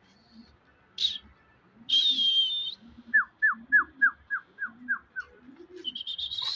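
A small bird calling: a short high chirp, a high whistled note, then a quick run of eight short falling notes, about four a second, and a longer high whistle near the end. Faint low cooing repeats underneath.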